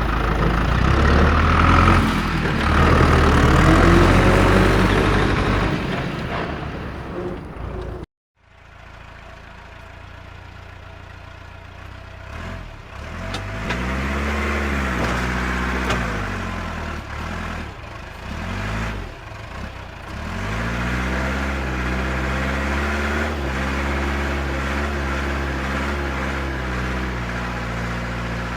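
Heavy vehicle engine, likely a tractor's, running and revving up and down, its pitch rising and falling several times. It cuts off abruptly about eight seconds in and returns quieter before revving again.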